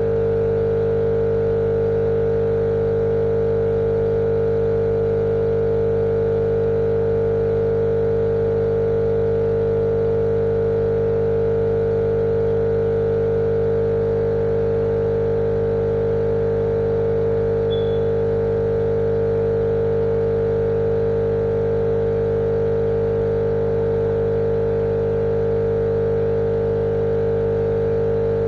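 Steady, unchanging motor hum with one strong mid-pitched drone over a lower rumble, running without a break.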